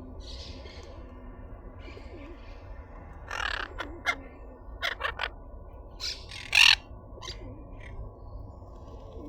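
Parrots squawking: a string of short, harsh screeches starting about three seconds in, the loudest about two-thirds of the way through.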